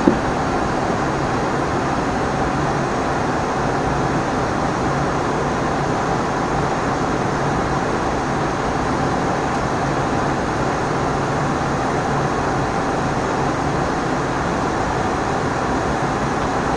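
Steady noise inside an Embraer ERJ 145 in flight: airflow and the hum of its twin Rolls-Royce AE3007 turbofans, with a faint steady tone over it. A brief click at the very start.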